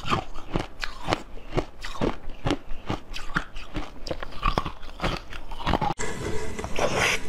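Close-up crunching as a person bites and chews a crisp, pale yellow food, with sharp crunches about twice a second. After a cut near the end comes one loud crunching bite into a hard blue wedge.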